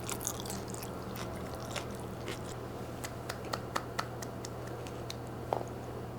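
A person eating: close chewing and soft wet mouth sounds with scattered light clicks, over a steady low hum.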